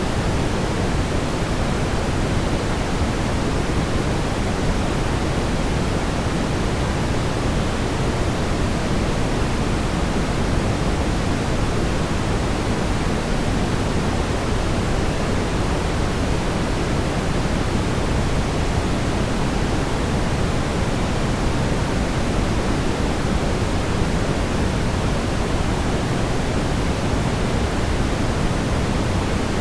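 Steady brown noise: a continuous, even rumbling hiss weighted toward the low end, with no changes or events.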